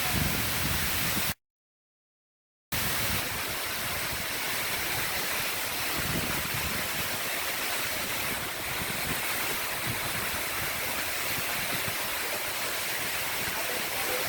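Rocky Brook Falls waterfall pouring, a steady rush of falling water. The sound cuts out completely for about a second and a half near the start, then resumes as before.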